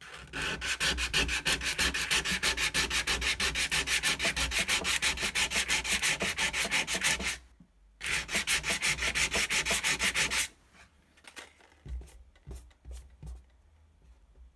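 Sandpaper rubbed rapidly back and forth by hand on the underside of a stainless steel sink, roughening the metal around a pinhole leak so epoxy repair putty will grip. It runs in fast, even strokes, stops briefly about seven seconds in, resumes for about two and a half seconds, then gives way to a few faint scrapes.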